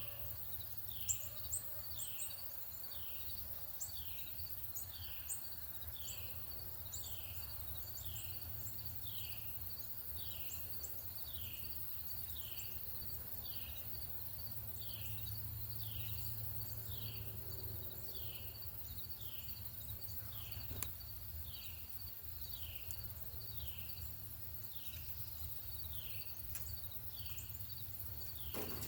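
Northern cardinal singing a long run of clear downslurred whistles, about one a second. High, short chip notes come from another bird in the first several seconds, over a steady low rumble.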